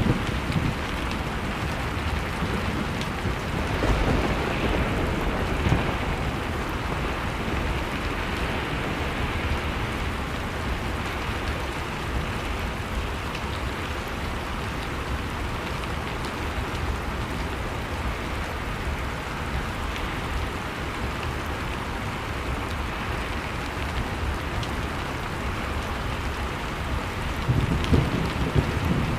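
Wood fire crackling over a steady blizzard wind, with low rumbling gusts swelling about four seconds in and again near the end.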